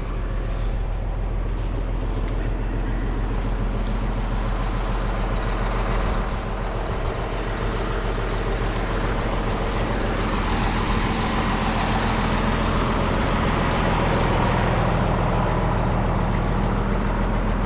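Steady running of a motor vehicle's engine, with a low hum and road or wind noise that grows a little louder about ten seconds in.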